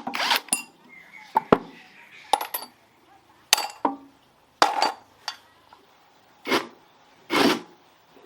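Small metal engine parts and hand tools clinking and knocking against each other, with several short scraping strokes in between.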